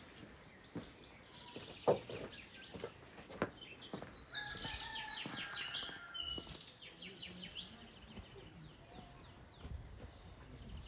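Songbirds chirping and singing, with a run of quick repeated notes around the middle. A few sharp clicks and knocks, the loudest about two seconds in.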